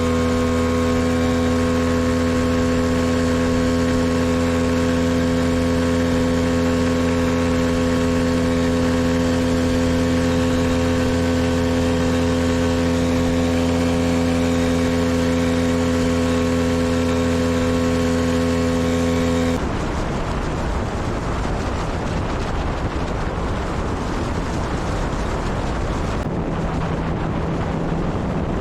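Tarpon 9.9 outboard motor running at a steady speed with an even, unchanging drone. About twenty seconds in it cuts off abruptly, and a rough rushing of wind on the microphone and water follows.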